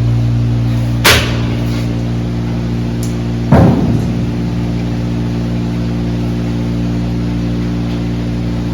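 A steady, low mechanical drone from a running engine or motor, with two sharp knocks, about a second and about three and a half seconds in, the second one the loudest.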